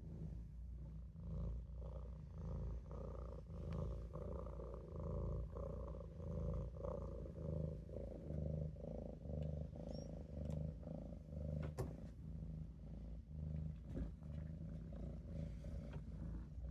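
Maine Coon kitten purring, the purr swelling and fading in a steady rhythm of about one cycle a second. One short click about twelve seconds in.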